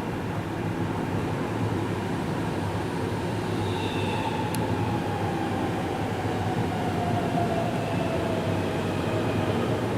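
Keihan 3000 series electric train pulling into the station, its traction motor whine falling slowly in pitch as it brakes, over steady rumbling running noise. There is one brief click about halfway through.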